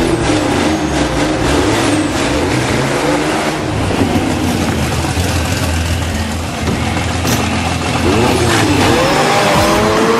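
Film sound of car engines revving, from a black muscle car and an orange sports car lined up side by side. A low, steady engine note runs through the middle, then several engine notes climb in pitch near the end as the cars accelerate away.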